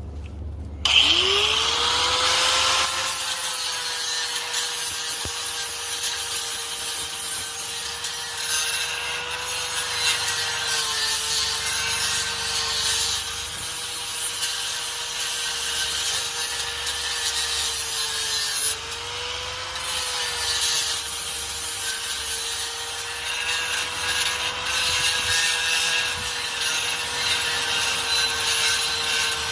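Angle grinder spinning up about a second in, then running steadily against the steel exhaust pipe with a high whine and a rasping hiss; the whine sags briefly about two-thirds of the way through, as if under heavier load.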